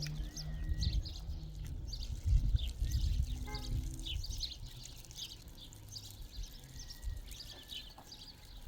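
Many small birds chirping over and over, over a low steady machine hum that comes and goes, with heavier rumbling a few seconds in.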